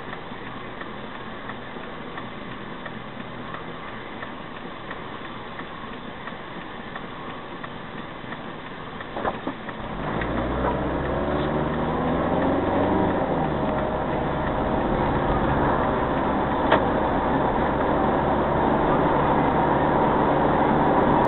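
Car engine heard from inside the cabin through a dashcam's microphone: a low steady idle while stopped, a couple of clicks about nine seconds in, then the engine note rising as the car pulls away and accelerates about ten seconds in, running louder and steady after that.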